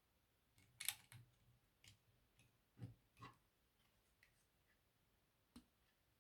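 Faint, scattered clicks and taps of LEGO plastic pieces being handled and pressed together, the loudest about a second in.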